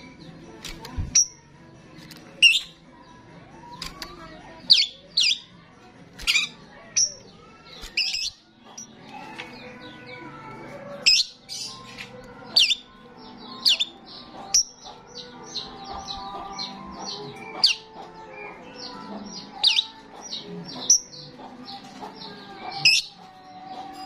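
Starling in full song: loud, sharp whistled notes repeating about once a second. From about nine seconds in, a fast run of chattering notes fills in between them.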